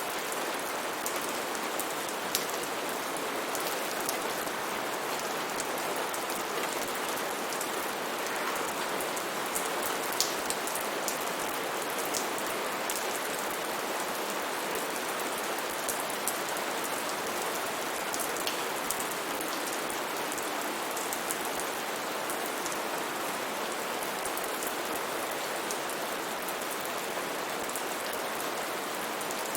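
Steady rain falling, an even hiss with scattered sharp drop taps on a surface.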